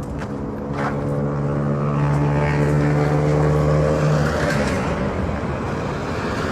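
A motor vehicle's engine running close by: a steady, even-pitched hum that swells about a second in and fades out a few seconds later.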